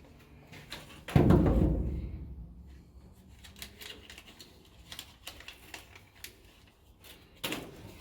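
Sheet metal panel being handled and fitted into a truck cab. A loud thump about a second in rings and dies away over about a second, followed by light clicks and taps and another, smaller knock near the end.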